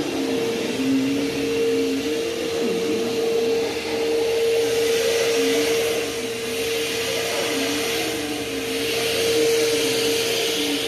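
Bissell CleanView Helix upright vacuum cleaner running, with a steady motor whine over a rush of airflow and a lower tone that wavers up and down.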